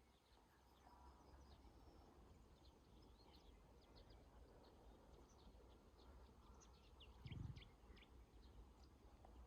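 Faint outdoor ambience with scattered short, high bird chirps over a low background rumble. A brief low thump about three quarters of the way through.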